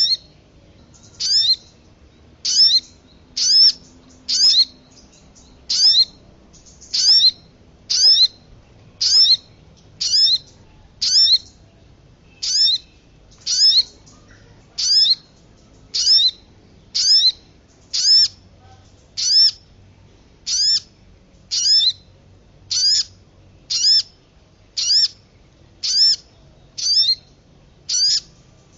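Looped bird-lure call for the sogon: a short, high, downward-sliding call repeated about once a second.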